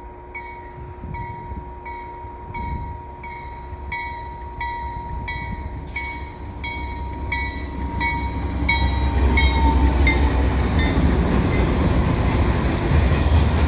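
CN freight train led by a GE C44-9WL diesel locomotive approaching, its low rumble growing much louder about eight seconds in. A regular ringing ding, about one and a half strikes a second, sounds over it and fades under the train noise.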